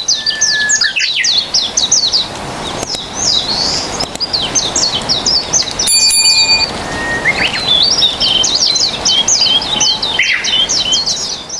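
Songbird singing long, rapid runs of quick slurred high notes in two bursts, with a short break in the middle, over a soft background hiss. A brief high ringing tone sounds in that break, about six seconds in.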